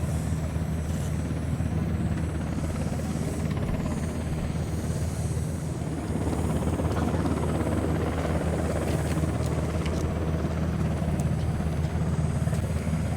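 SH-60K Seahawk helicopter running nearby, a steady rotor and turbine drone with a slight swell about halfway through.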